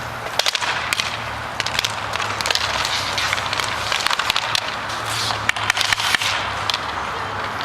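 Hockey game play: sticks clacking against the puck and each other, and skates scraping, with a steady low hum underneath.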